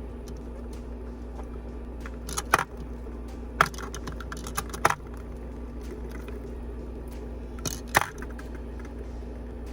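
Makeup products clicking and clacking as they are handled and set into an organizer drawer, a few separate knocks spread across several seconds, over a steady low hum.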